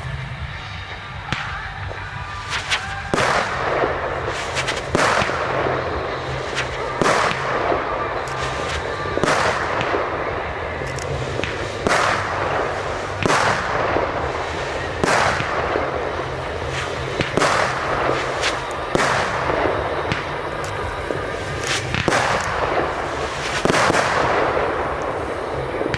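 Fireworks display: aerial shells bursting in loud, sharp bangs every second or two, each trailing off in a hiss.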